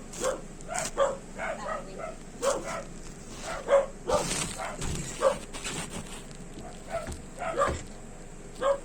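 A dog barking and yipping in short, repeated calls, about one or two a second.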